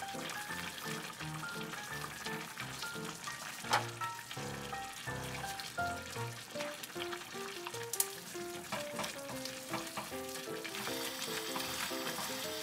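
Ramen noodles and sauce bubbling and sizzling in a pan under light background music with a plucked melody. Two sharp clicks come about 4 and 8 seconds in. Near the end the sizzle grows brighter as the noodles are stirred over high heat.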